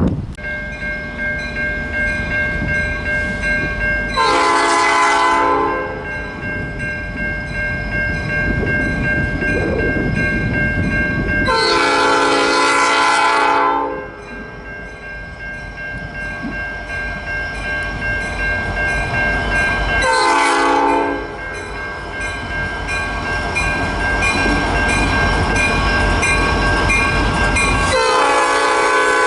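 Passing freight train rumbling while its locomotive sounds a multi-chime air horn in the grade-crossing pattern: long, long, short, long, the last blast starting near the end.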